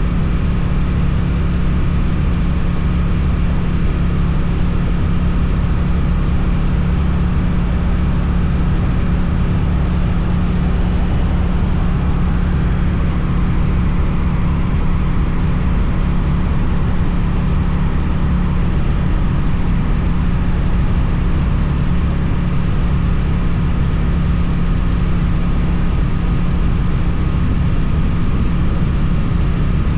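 Suzuki twin-cylinder motorcycle engine with an Akrapovič exhaust, running at a steady speed under way; a low, even exhaust note that holds constant with no revving.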